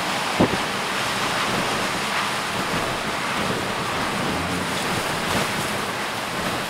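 Storm-force wind blowing over a steady wash of heavy surf, with wind buffeting the microphone. A single brief thump about half a second in is the loudest moment.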